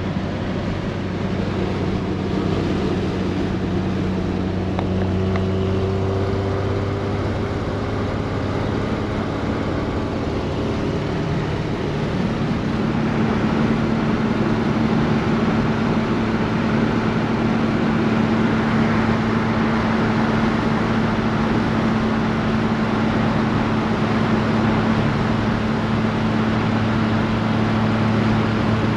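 1968 Triumph GT6's two-litre straight-six engine running as the car is driven, with road noise. Its pitch climbs over several seconds, then settles into a steady, slightly higher and louder drone from about twelve seconds in.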